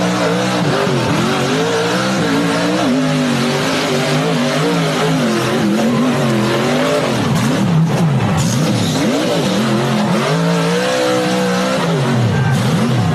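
Vehicle engine revving hard, its pitch rising and falling again and again, over a steady rushing noise.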